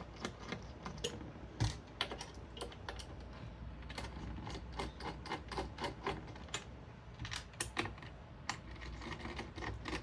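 Irregular light clicks and taps of cardboard packaging and small plastic and metal parts being handled as a Thermalright Peerless Assassin 120 CPU cooler is unboxed.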